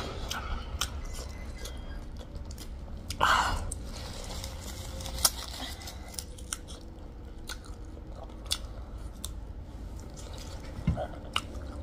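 People chewing and biting food (spicy pork ribs and noodles), with many short wet clicks and crunches scattered through and a louder burst about three seconds in. A steady low hum sits underneath.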